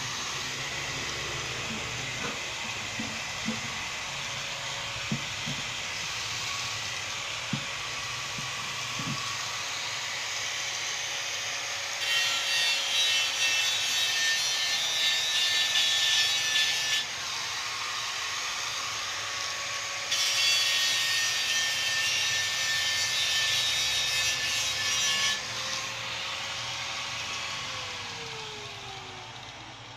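Abrasive rubbing on the metal of a motorcycle fuel tank: a steady scratchy sanding noise that grows louder for two stretches of a few seconds each, starting and stopping abruptly. A faint steady hum runs underneath and drops in pitch near the end.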